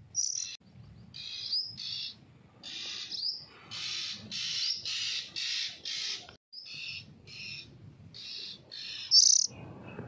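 A fledgling songbird calling over and over with short, harsh, high chirps, about two a second. The loudest comes near the end.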